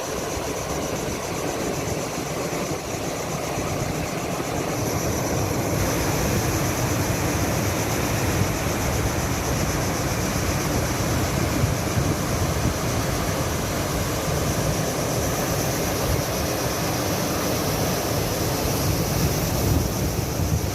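Rough sea waves washing in, with wind rumbling on the microphone. It gets a little louder about six seconds in.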